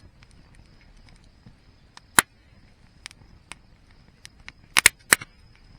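Wood fire crackling: scattered small ticks and sharp pops of burning wood, with one loud pop about two seconds in and a quick run of three loud pops near the end.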